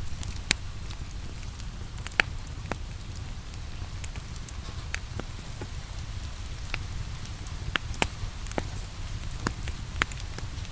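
Wood fire crackling, with a dozen or so sharp, irregular pops over a steady low rumble, and rain falling steadily in the background.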